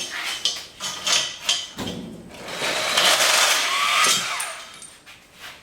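Metal tools clanking and knocking, then a rough hissing noise lasting about two seconds in the middle.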